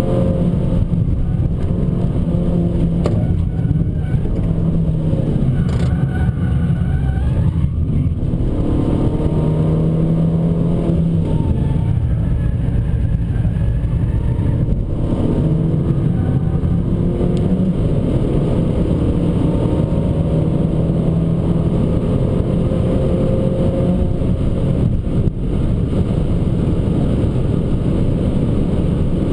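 Abarth 595 Competizione's turbocharged 1.4-litre four-cylinder engine pulling hard through the gears, its pitch climbing and then dropping back at each shift, over steady tyre noise on a wet track.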